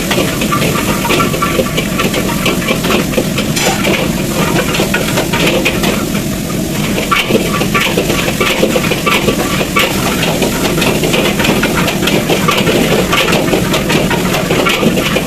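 Metal spatula scraping and clattering rapidly against a wok as food is stir-fried and sizzles, over a steady rushing noise.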